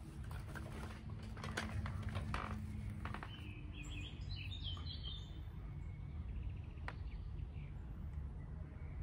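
Quiet outdoor background with a steady low rumble. There is scattered rustling and clicking in the first few seconds, and a small bird chirps a quick run of notes about halfway through.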